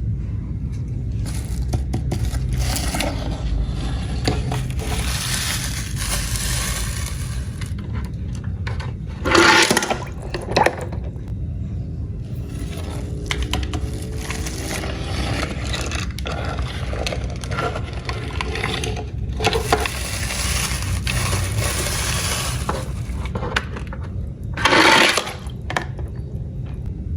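Toy cars scraping and rattling along, with two short, loud splashes into water about nine and twenty-five seconds in, over a steady low rumble.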